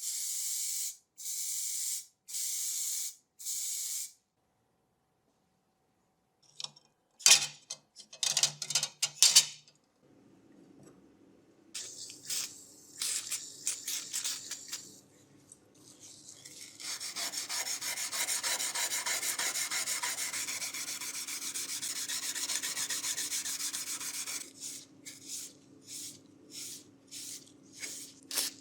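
Hand scrubbing and rubbing on the heater's parts during cleaning and rust removal, in long strokes and then short repeated ones. It opens with four short even hisses, and a few sharp clicks come about seven to nine seconds in. A steady low hum runs under the second half.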